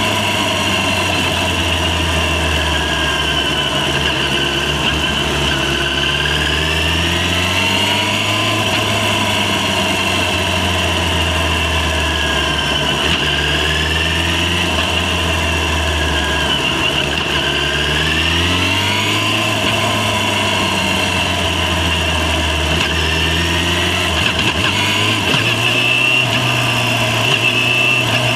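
Yamaha FZ6's 600 cc inline-four engine running under way, its pitch climbing and dropping several times as the revs rise and fall.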